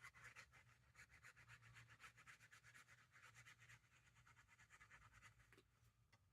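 Faint, quick rubbing and scratching of paper, as glued paper is pressed and smoothed down by hand; the strokes thin out near the end.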